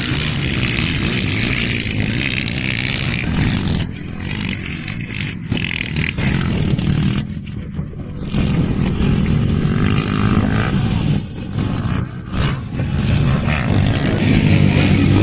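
Motocross motorcycle engines revving hard and falling off, with the throttle briefly cut a few times.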